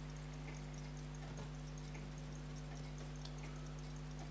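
A steady low electrical hum of room equipment, with a few faint small clicks now and then.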